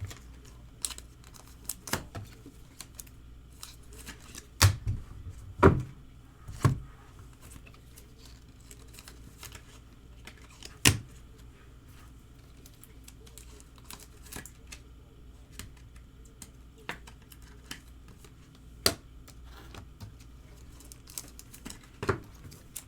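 Irregular clicks and taps of hands handling trading cards and objects on a desk, a few louder knocks spaced several seconds apart, over a low steady room hum.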